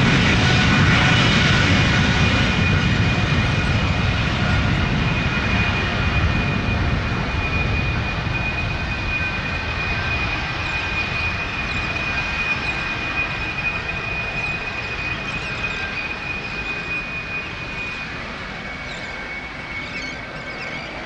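Boeing 777-200ER's twin jet engines at high power as it runs down the runway, most likely on its takeoff roll. A deep rumble carries a steady high whine, loudest at first and fading steadily as the jet moves away.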